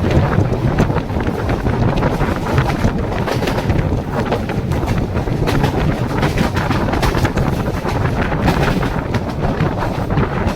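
Mumbai suburban electric local train running, its wheels clattering on the rails in a steady rumble, with wind buffeting the microphone.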